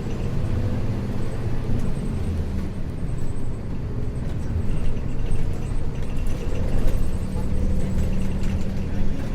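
Isuzu U-LV224N bus's 6QB2 diesel engine running steadily under way, heard from inside the cabin as a low drone with road noise.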